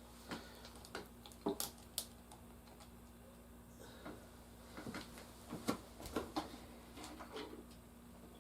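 Scattered light clicks and taps, about a dozen, irregularly spaced, as of plastic toys being handled, over a faint steady hum.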